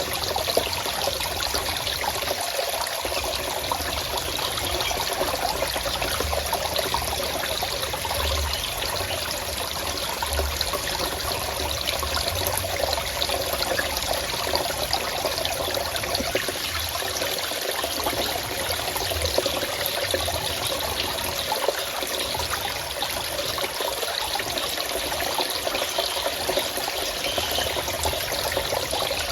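Forest stream water flowing and trickling steadily over rocks, an even rushing with no breaks.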